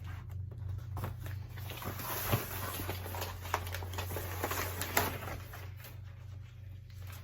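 Plastic packaging and parts being handled during an unboxing: irregular rustling and crinkling with scattered sharp clicks and taps, over a steady low hum.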